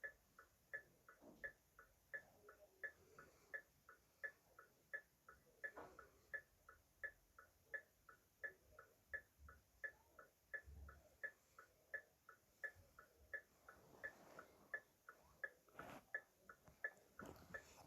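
Car hazard-light flasher ticking: a faint, steady tick-tock of alternating louder and softer clicks, about three a second, as the flasher switches the lamps on and off.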